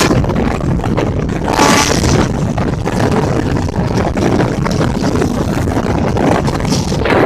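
Kerala Express passenger train running at speed, heard from the open doorway of a coach: a steady rolling rumble of wheels on the track, mixed with wind on the microphone.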